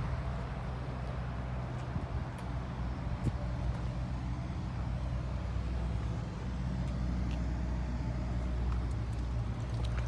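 Ford 6.0-liter Powerstroke V8 turbo diesel idling steadily, with a low, even drone.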